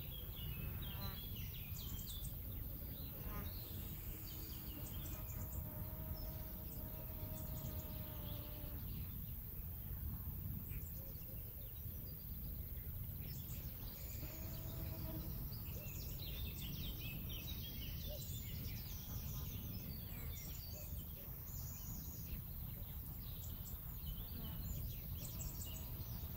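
Small birds chirping and singing on and off outdoors, over a steady low rumble. A faint, even hum is held for a few seconds about four seconds in, and again for a moment about fourteen seconds in.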